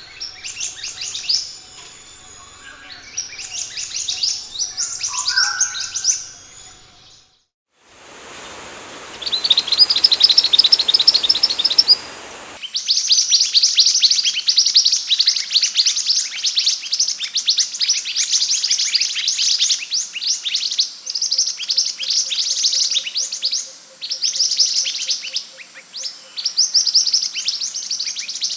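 Scarlet minivet (sepah hutan) singing in fast, high, twittering chirps, repeated in dense runs. It drops out briefly about 7 s in and returns with background hiss for a few seconds before the chirping runs on unbroken.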